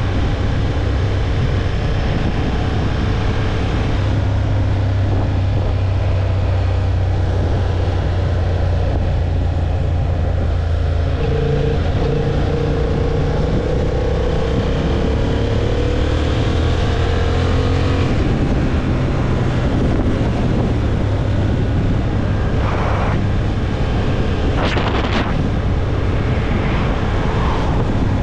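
Honda CB750 Hornet's parallel-twin engine running at a steady road speed, heard from the rider's microphone with wind noise. The engine note shifts a little in pitch midway, and a few short bursts of noise come near the end.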